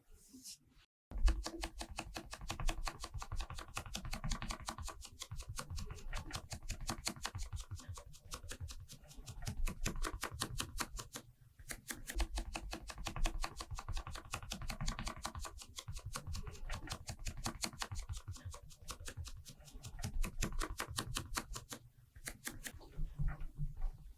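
Rapid, even tapping, about ten taps a second, as thick cream is patted and blended onto a watermelon's rind. It breaks off briefly about halfway through and stops shortly before the end.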